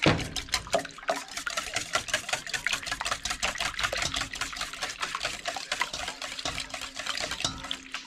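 Eggs being beaten in a bowl: rapid clicking of the utensil against the bowl, with the liquid sloshing. A knock at the very start is the loudest moment.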